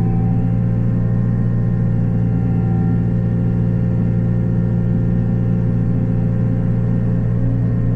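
Takeuchi TB285 mini excavator running with its 42-inch Blue Diamond hydraulic rotary cutter spinning: a steady, even drone.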